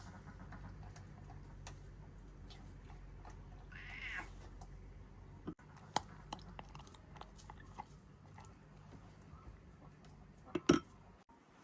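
A short animal call about four seconds in, over a low background hum. Scattered sharp clicks follow, then a louder knock near the end.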